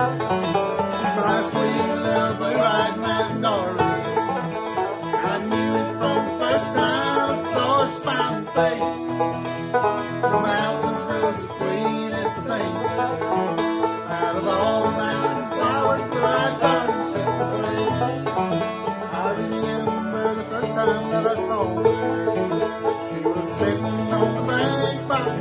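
Banjo and acoustic guitar playing a bluegrass song.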